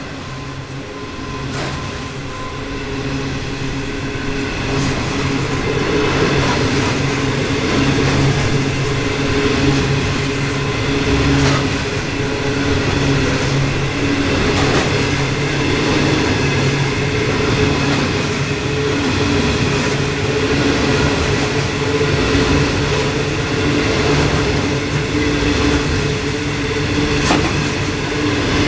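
Loaded coal hopper wagons of a long narrow-gauge coal train rolling past at close range. Steel wheels make a steady rumble and hum on the rails, with an occasional sharp clack. It gets louder over the first few seconds, then holds steady.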